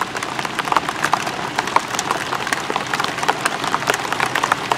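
Heavy rain: a dense, irregular patter of raindrops striking close by over a steady hiss of rainfall.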